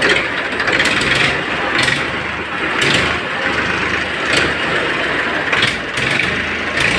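Massey Ferguson 1035 DI tractor's three-cylinder, 36 hp Simpson diesel engine running steadily at idle, with short sharp noisy bursts every second or so.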